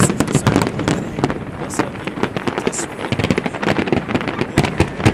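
Fireworks going off in a rapid, unbroken string of sharp bangs and crackles.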